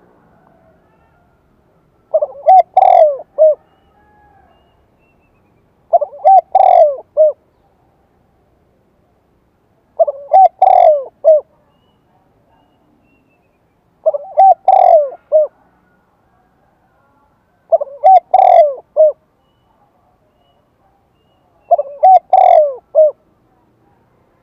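Spotted dove cooing: six calls of several rolling coo notes each, one about every four seconds.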